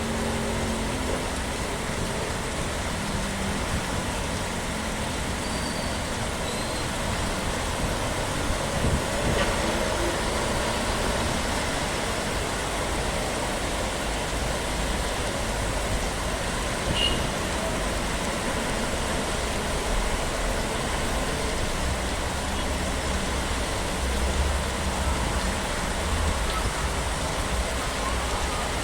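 Steady road traffic noise, vehicles running past with a low rumble that grows stronger near the end.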